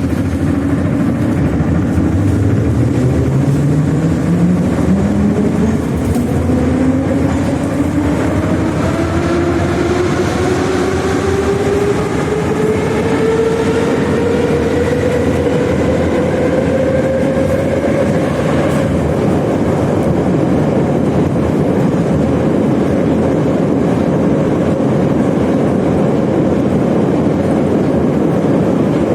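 81-717/714 'Nomernoy' metro train pulling away. The traction motors' whine rises steadily in pitch for about 17 seconds, then levels off into steady running noise from the wheels and rails.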